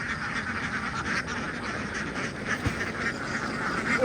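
A large flock of domestic ducks quacking together, a dense continuous chorus of overlapping calls.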